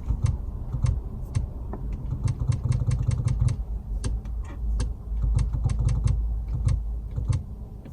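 Quick runs of light clicks from the car's infotainment controls as the Burmester sound system's equalizer settings are stepped through, over a steady low rumble in the car.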